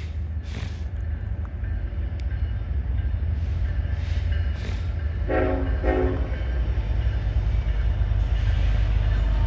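Metra commuter train approaching, its low diesel rumble growing steadily louder, with two short horn blasts about five and six seconds in.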